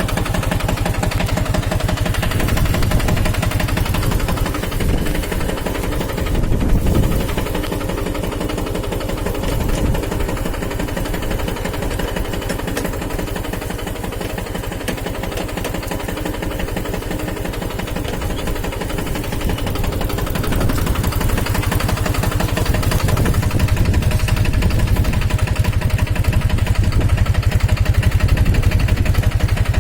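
Captain 250 DI mini tractor's diesel engine running steadily while pulling a kunte inter-cultivator, growing louder about two-thirds of the way through.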